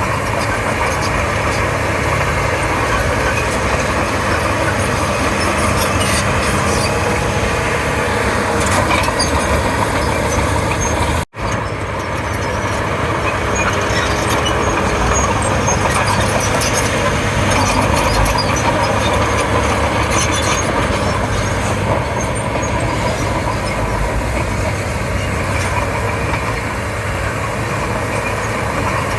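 Komatsu D31P bulldozer's diesel engine running steadily under work, with scattered clicks and clanks over the engine noise. The sound breaks off for a moment about eleven seconds in.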